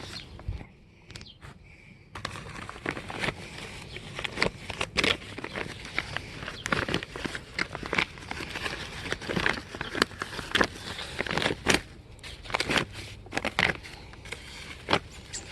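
Sides of a potato grow bag being rolled down by hand: a dense run of irregular crinkling and crackling rustles, after a brief quieter moment at the start.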